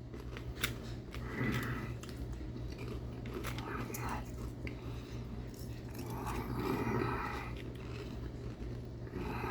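A man chewing food at close range, with wet mouth clicks and smacks and a few soft muffled mouthfuls, over a steady low hum.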